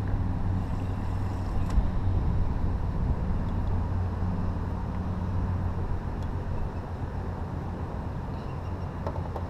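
An engine running steadily at an even pitch, with wind noise on the microphone.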